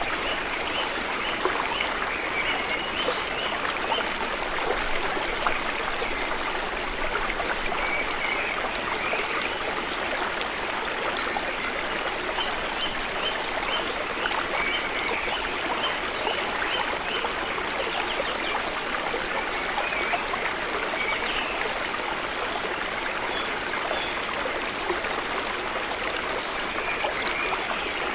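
River water flowing and babbling steadily, with runs of short high chirps now and then.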